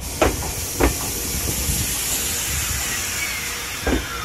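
Ueda Electric Railway 1000-series electric train rolling slowly into the station. A steady hiss of air starts suddenly, the wheels clunk over a rail joint three times, and a falling whine near the end comes as the train slows.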